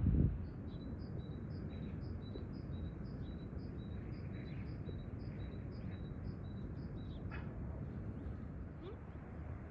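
A small bird calling over and over, a quick two-note call about three times a second, stopping about seven seconds in, over a steady low outdoor background noise. A brief low thump right at the start.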